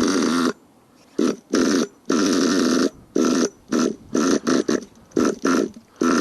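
Nitro RC engine being pull-started again and again, sputtering and firing in short ragged bursts, about a dozen of them, none lasting more than about a second, without keeping running. The high-speed needle is screwed all the way in, so the engine is set far too lean to catch.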